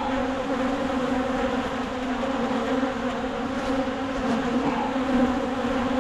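Many honeybees in flight around an opened hive, a steady low buzz with a single hum pitch and its overtones.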